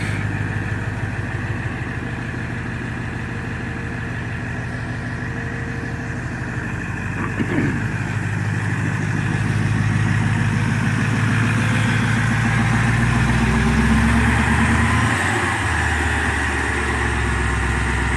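Cummins 5.0 V8 turbo-diesel idling just after a cold start in freezing weather, a start made without letting the glow plugs warm long enough. About twelve seconds in, the idle note deepens and grows slightly louder.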